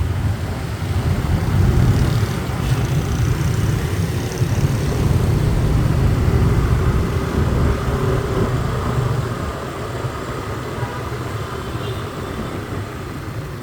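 City street traffic: engines of passing cars and motorbikes over a steady low rumble. It is louder through the first nine seconds or so and eases a little after.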